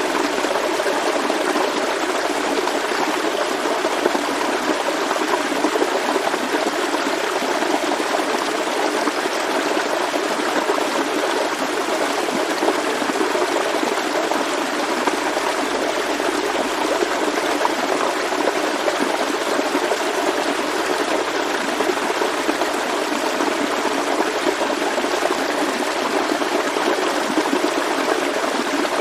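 Forest stream flowing, a steady rushing and babbling of water over rocks.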